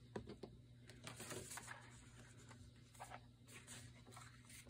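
Faint handling noises at a craft table: a few light clicks and taps and a brief soft rustle of paper, over a low steady hum.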